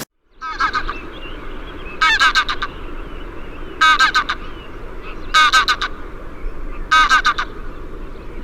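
An animal calling in short bursts of four or five quick, high notes, about every one and a half seconds, five times.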